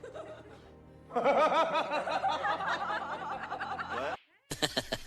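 A rapid, rhythmic run of snickering laughter lasting about three seconds, which cuts off abruptly. A new clip with sharp clicks follows.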